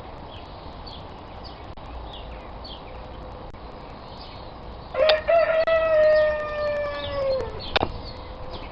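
A rooster crows once, a long held call starting about five seconds in that drops in pitch at its end. Small birds chirp throughout.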